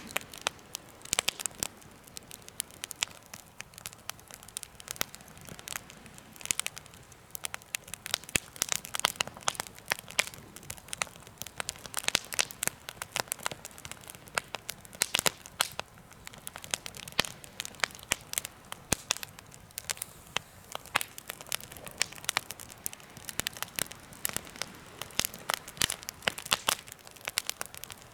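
Campfire burning in a homemade fire stand, crackling with dense, irregular sharp pops and snaps over a soft hiss.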